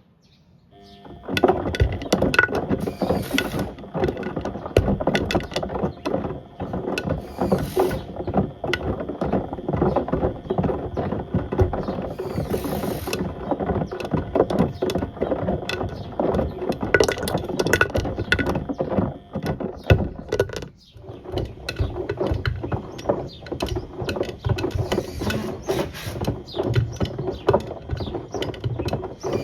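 A toaster and kettle clattering and banging irregularly inside the drum of a Beko WM74135 washing machine as it turns. The clatter starts about a second in and briefly pauses near the two-thirds mark, with a few short hisses along the way.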